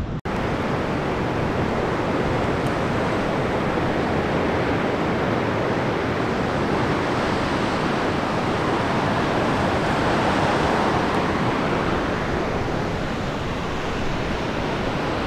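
Steady rushing noise of wind and ocean surf on an exposed sea-cliff top, with heavy low rumble from wind hitting the microphone. It cuts out for an instant just after the start.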